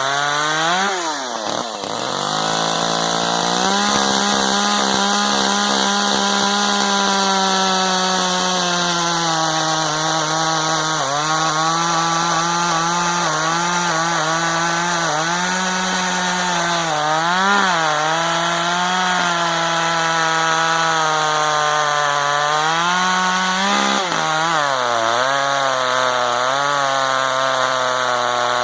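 Gasoline two-stroke chainsaw running at high throttle through a cut in wood. Its pitch drops and recovers near the start, then sags and picks back up several times as the chain loads in the cut.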